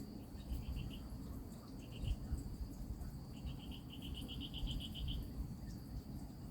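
Insects chirping outdoors: three short, rapid pulsing trills, the longest lasting about two seconds near the middle, over a steady thin high-pitched drone and low background rumble.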